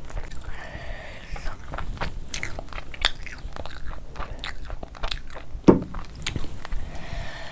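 Close-miked chewing of spicy chicken and rice, with many sharp wet mouth clicks. Thick gravy is poured from a glass bowl onto the rice around the middle, and one louder knock comes about three-quarters of the way through.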